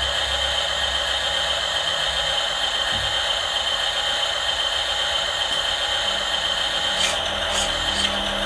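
Radio-controlled model truck's small electric motor and gearbox whirring steadily, with a high steady whine, and a few short clicks near the end.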